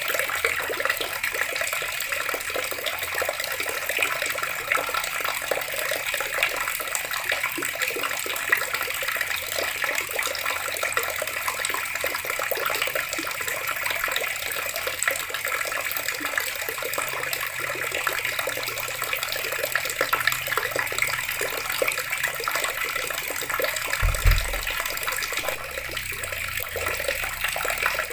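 Water running steadily from a tap, a continuous splashing stream. A brief low thud comes about three-quarters of the way through.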